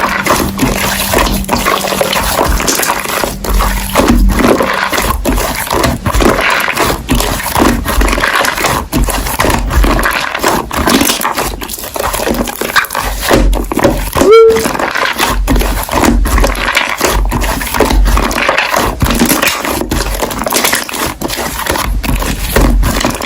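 Slime being squeezed and pressed by hand, with continuous wet crackling, squelching and small pops. About two-thirds of the way through, a short rising whistle-like tone cuts in.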